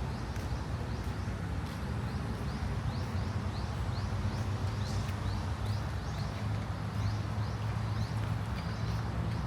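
A small bird calling in a steady series of short, high, rising chirps, about two to three a second, over a continuous low rumble of city traffic, with faint footsteps on a path.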